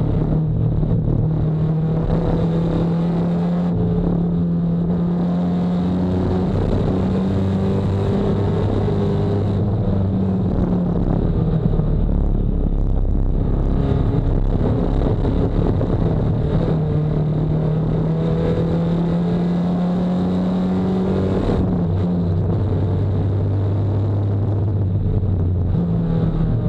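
Nissan 240SX race car's engine running hard, heard from an onboard camera. Its pitch climbs slowly, drops to a lower steady note about ten seconds in and again about twenty-two seconds in, then picks up again near the end.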